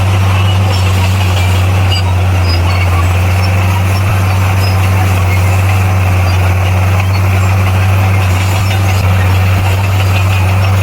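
Heavy diesel engine of earthmoving machinery running steadily with a deep, even hum and no change in speed.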